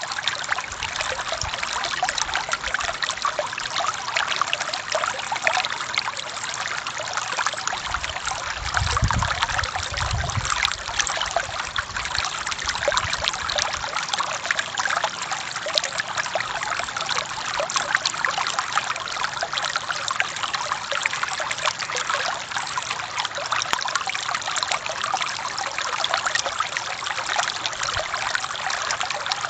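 Forest stream flowing steadily over rocks, a constant splashing, babbling rush of water. A couple of brief low rumbles come about nine and ten seconds in.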